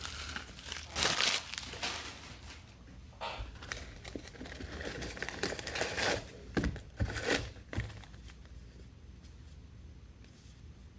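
Trading-card pack wrappers crinkling and tearing open in a run of irregular rustles, which die down to faint handling noise after about eight seconds.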